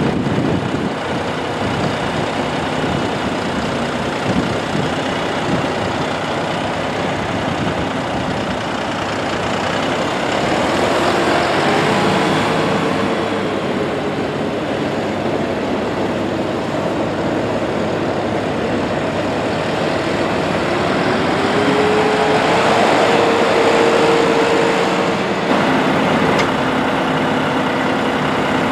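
John Deere 5075E's three-cylinder turbo diesel running, revved up twice to a held higher speed, about ten seconds in and again about twenty-one seconds in. It settles back down near the end.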